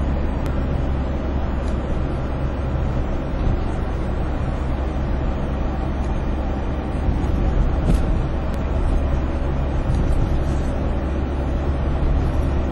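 Steady engine and tyre rumble heard from inside a moving car.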